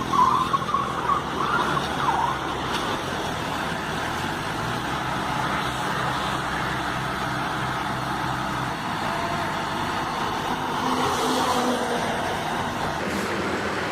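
Motor vehicle engine running steadily, with a higher wavering sound in the first couple of seconds.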